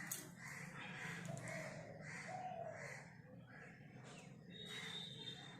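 Faint bird calls, short harsh calls repeating about twice a second, like crows cawing in the background.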